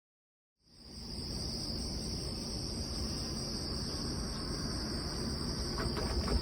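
Steady high-pitched insect chorus drone, starting abruptly about half a second in, over a low outdoor rumble, with a few faint clicks near the end.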